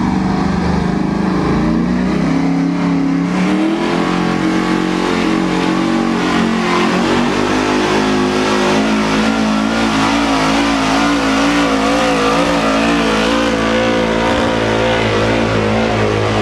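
Pickup truck engine at full throttle during a truck pull: the pitch climbs over the first few seconds, then holds high and wavers as the engine labours under load.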